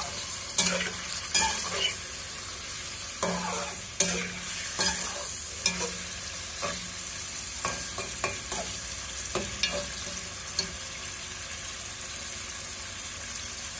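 Chicken cubes sizzling in hot oil in a metal kadai while a metal spatula scrapes and knocks against the pan as the pieces are stirred. The stirring stops about ten seconds in, leaving the steady sizzle.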